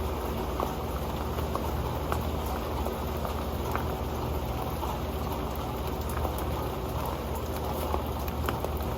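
Rain falling steadily onto an old metal pan: a dense patter with many small, sharp drop ticks.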